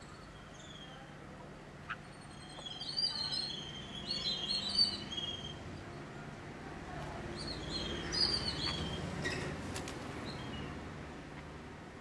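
Birds chirping in two bursts of quick, high, repeated calls, one about three seconds in and one about eight seconds in, over a faint steady low hum.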